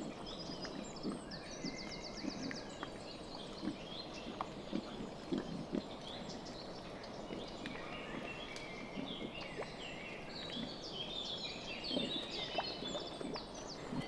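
Domestic pigs grunting softly and intermittently while they feed, with birds chirping in the background, more busily near the end.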